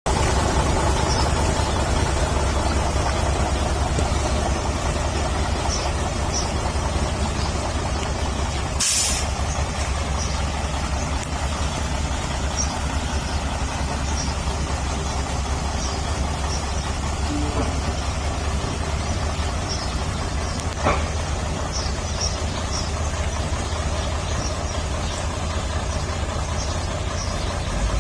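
Heavy diesel construction machinery running with a steady low rumble, with a short hiss of released air about nine seconds in.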